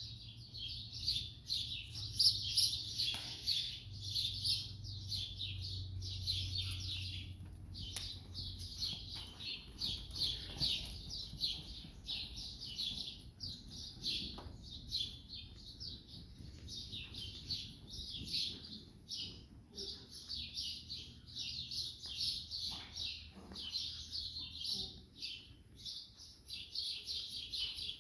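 Small birds chirping continuously, many short high chirps overlapping one after another, over a faint low hum.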